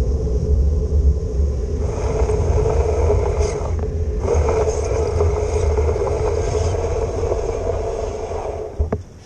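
Steady low rumble of road traffic on a wet city street, with a constant hum and a hiss over it; it drops away abruptly near the end.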